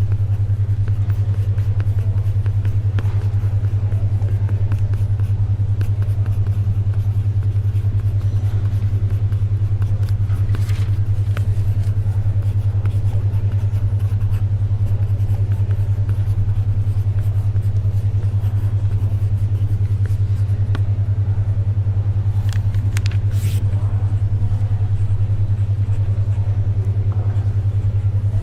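A low, steady tone of about 100 Hz pulsing rapidly, a 10.2 Hz alpha-brainwave beat, over faint library ambience. A few soft rustles, like paper, come about eleven seconds in and again around twenty-three seconds.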